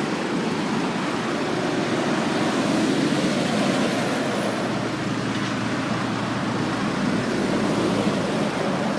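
Steady motor-vehicle noise: an even rumble and hiss, with a faint high whistle that slides down in the middle.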